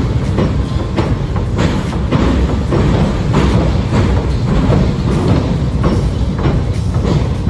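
Tobu Skytree Line train crossing the steel truss railway bridge close by: a heavy, steady rumble with irregular clacks of the wheels over the rail joints.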